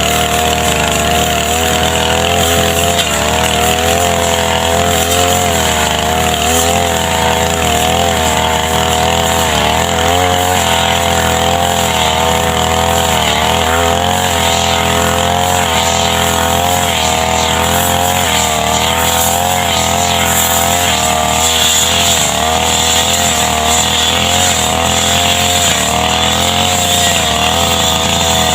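Brush cutter (grass trimmer) engine running steadily at high revs, its pitch wavering slightly as it cuts grass.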